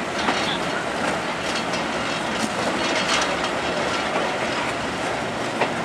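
Running noise of a passenger train, heard from an open coach window, with a few sharp clicks of the wheels over rail joints.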